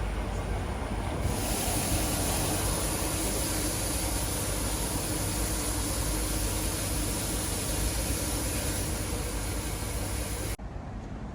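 Steady rumble and hiss of a heritage steam train in motion. The sound changes abruptly about a second in and drops suddenly near the end.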